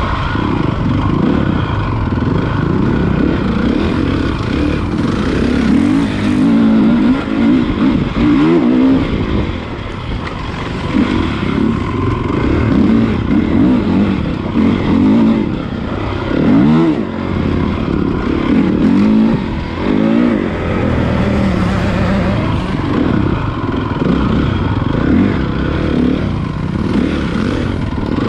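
Honda CRF450 motocross bike's single-cylinder four-stroke engine under riding, revving up and dropping back again and again as the throttle is worked.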